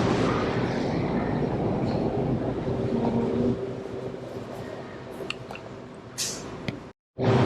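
Steady engine and road noise of a moving car, with a few small clicks and a short hiss near the end.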